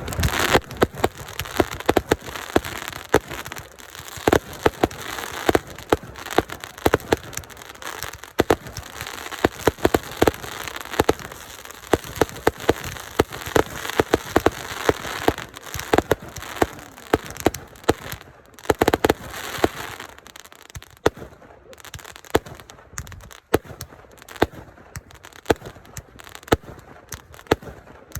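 Fireworks going off in a dense, continuous volley: many sharp bangs and crackles in quick irregular succession.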